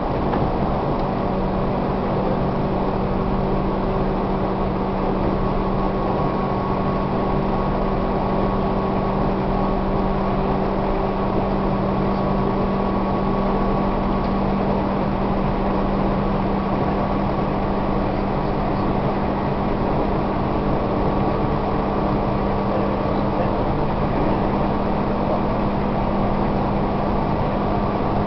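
Tobu 1800 series electric train running at a steady speed, heard from inside the passenger car. The motors and gears give a steady, unchanging hum over a constant roar of wheels on the rails.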